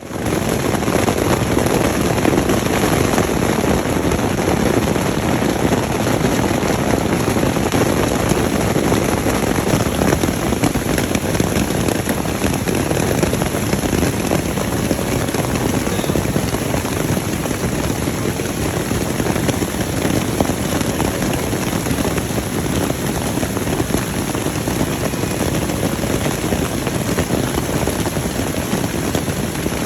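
Heavy thunderstorm downpour: a dense, steady pelting of rain, loud and unbroken.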